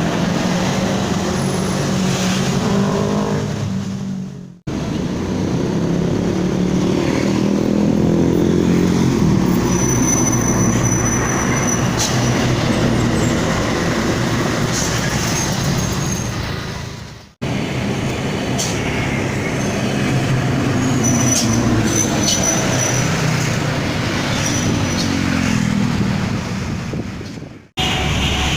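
Diesel engines of Hino dump trucks with straight-through 'Srigala' hollow exhausts, pulling past under load, the engine pitch rising and falling. There is a high turbo whistle at times, and the sound breaks off abruptly between several short clips.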